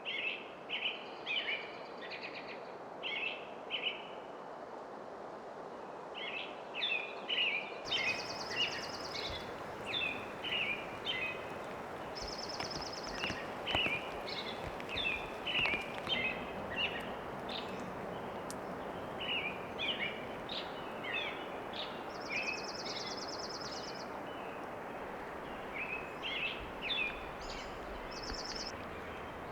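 Small songbirds chirping over and over, with an occasional higher buzzy trill, over a steady hiss of rain.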